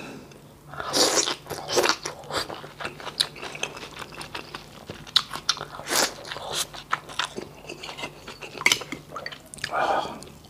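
Close-miked eating sounds: a man chewing a handful of rice and boiled beef-soup vegetables, with wet smacks, crunches and many quick mouth clicks. Louder smacks come about a second in, at two seconds, around six seconds and near the end.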